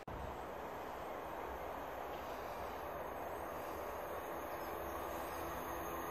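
Distant train approaching along the line: a steady rumble that slowly grows louder.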